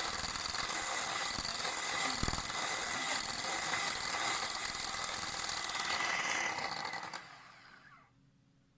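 Instant coffee being whipped in a cup: a steady, dense mechanical whirring and scraping that stops about seven seconds in.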